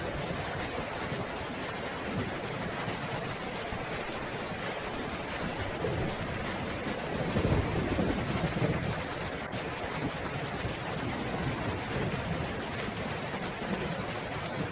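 Steady rain falling, with a low roll of thunder that swells up and fades about halfway through.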